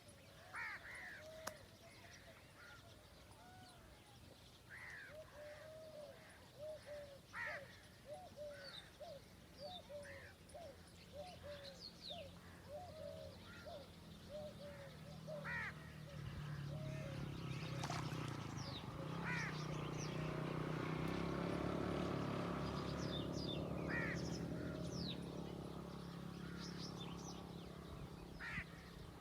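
Several birds calling outdoors: a quick series of short, arched calls repeated over and over, with higher chirps scattered throughout. About halfway in, a low hum swells up, is loudest a little after the middle, then slowly fades.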